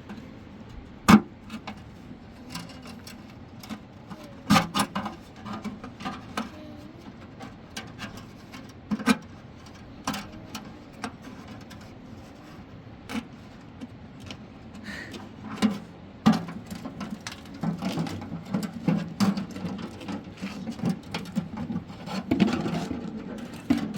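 Scattered sharp knocks and clatters, a dozen or so at irregular gaps, with scraping and rustling of hand work in between.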